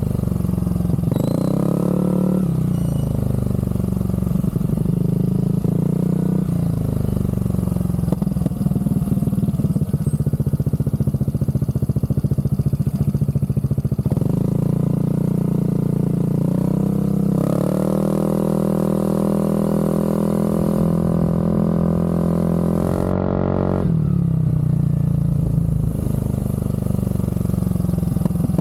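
Aprilia SR GT scooter's single-cylinder engine running through a Zard aftermarket exhaust, idling with a short blip of the throttle early on. About halfway through it is held at higher revs for about six seconds, then drops back to idle.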